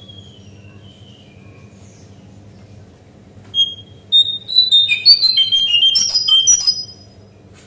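Cingcoang coklat (jongkangan) song: a few faint falling whistles, then about three and a half seconds in a loud, rapid burst of jumbled high whistled notes lasting some three seconds, over a steady low hum.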